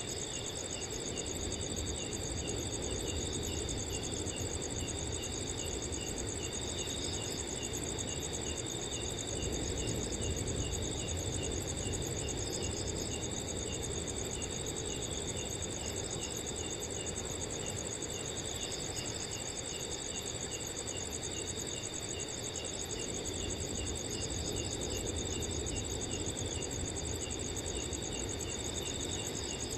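Crickets chirping in a steady night chorus, with one keeping a regular, even chirp, over a low rumble of wind.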